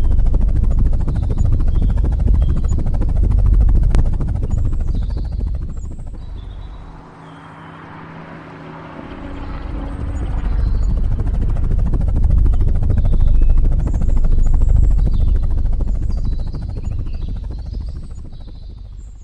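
Helicopter rotor chopping steadily, dropping away about seven seconds in to a steady hum, then building back up and fading near the end.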